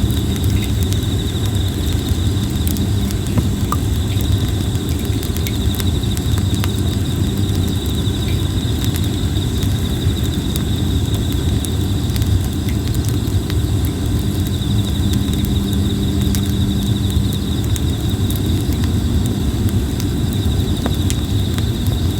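Plum-wood campfire crackling, with scattered sharp pops and snaps over a steady low rumble. A steady chorus of insects chirps high above it.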